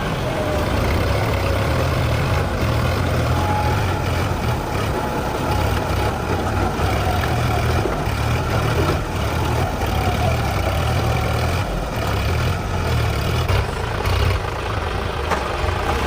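Tractor diesel engine running steadily, a deep low drone with no break.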